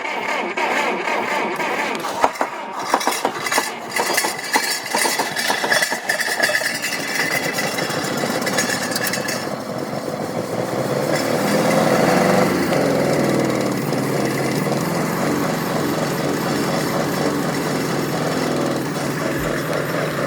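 GAZ M20 Pobeda's four-cylinder side-valve engine being cranked on the starter for several seconds, then catching about ten seconds in and running steadily. It is misfiring on a cylinder and shaking, after standing unused for a long time.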